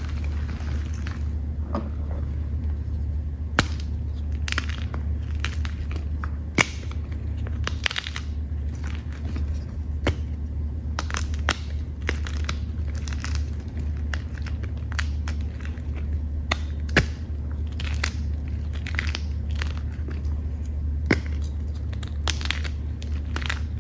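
Chalk and reformed chalk chunks being crushed, giving irregular crunches and sharp crackles several times a second, over a steady low hum.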